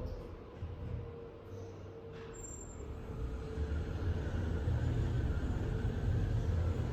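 Machine-room-less traction lift car travelling between floors, heard from inside the car: a low rumble with a faint steady hum, growing louder from about three seconds in.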